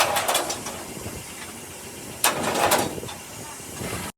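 Two quick flurries of sharp knocks, one at the start and one about two seconds later, over a steady background noise.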